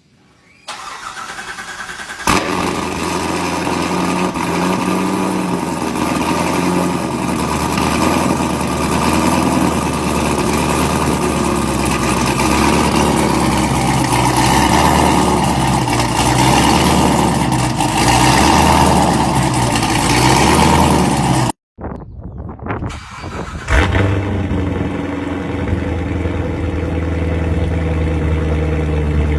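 Corvette C7 Z06's supercharged 6.2-litre V8 cranking and starting: it catches with a loud flare about two seconds in, then runs at a fast idle with the pitch wavering. About 21 seconds in the sound cuts out completely, comes back unevenly, and a second loud start near the end settles into a steady idle.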